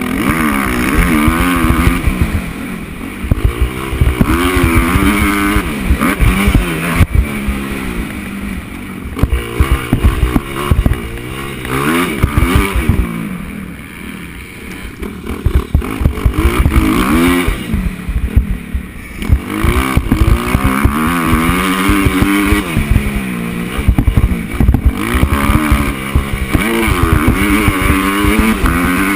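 Motocross bike engine revving hard and dropping off again and again as the rider works the throttle around the track, with wind and bumps buffeting the microphone.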